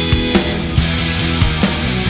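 Rock band music: a held chord, then drums come in just after the start with cymbal crashes, and the full band plays on.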